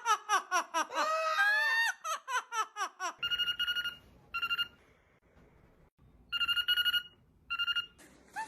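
A parrot laughing loudly on request, a quick run of rising-and-falling 'ha' notes for about three seconds. Then come four short bursts of a steady telephone-like ringing tone.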